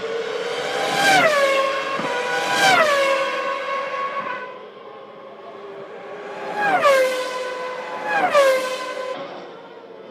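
1998 Formula One cars' V10 engines at full throttle passing one after another, four cars in two pairs, each note dropping sharply in pitch as it goes by.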